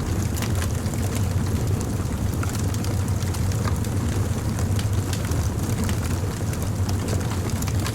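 Wood fire burning, with frequent irregular crackles and pops over a steady low rumble.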